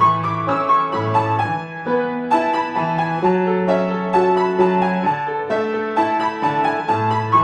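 Solo piano playing a piece: a melody in the middle register over held bass notes and chords.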